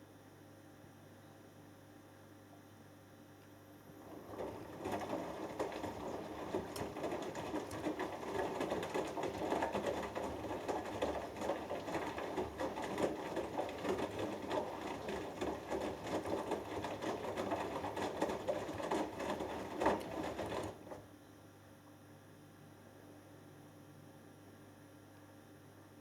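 Hoover Dynamic Next washing machine tumbling a wet 6 kg cotton load during the wash: the drum starts turning about four seconds in with a rough churning full of small knocks from the laundry and water, runs for about sixteen seconds, then stops, leaving only the machine's low hum.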